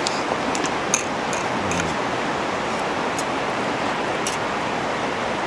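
Wood fire crackling in a wood-burning grill: a few sharp pops scattered over a steady hiss.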